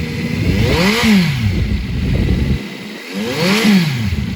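A 2023 Kawasaki Z900's inline-four engine, breathing through an aftermarket LeoVince exhaust, is revved twice from idle, each blip rising and falling back within about a second.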